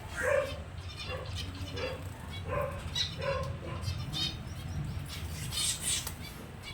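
Several finches calling, short repeated calls at an irregular rate with high chirps among them, over a steady low hum.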